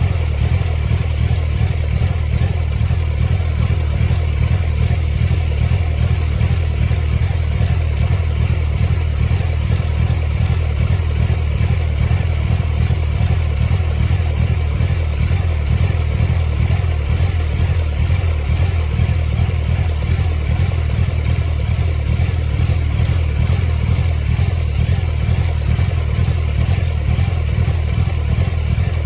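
The 2.3-litre supercharged four-cylinder engine of a 1999 Mercedes-Benz C230 Kompressor running steadily with an even, rapid pulse. The engine has a fault that makes the check engine light flash.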